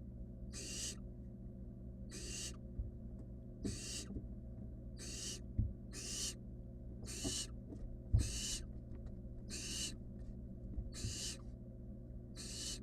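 Barn owl nestling giving repeated hissing begging calls, the 'snoring' of a barn owl chick, each a short rasping hiss about once a second, about a dozen in all. A few soft knocks come in between.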